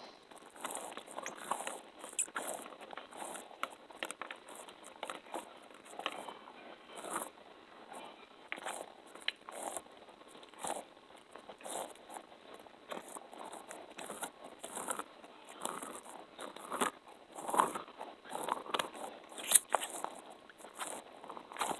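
Close-miked ASMR sticky sounds: an irregular run of soft sticky clicks, smacks and crackles, a few a second, with the loudest ones near the end.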